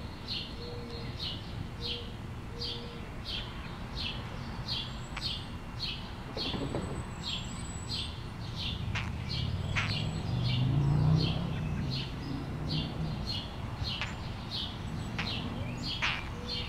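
A small bird chirping over and over, short high chirps at about two a second. A low rumble swells and fades around the middle.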